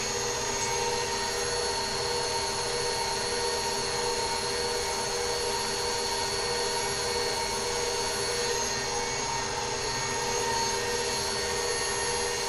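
Bowl-lift stand mixer running at a steady speed with an even motor whine, beating butter, sugar, eggs and vanilla into a fluffy cookie dough.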